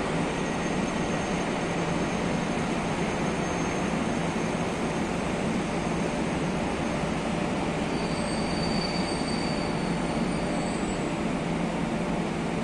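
Steady rail noise of trains in a station, a continuous low rumble with faint high-pitched metallic wheel squeals, one in the first half and another about two-thirds of the way through.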